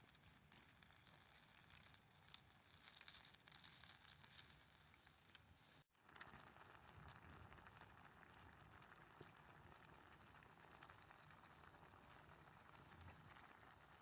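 Faint crackling and sizzling from cooking over a wood campfire, scattered small pops over a soft hiss. A cut about six seconds in changes the background hiss.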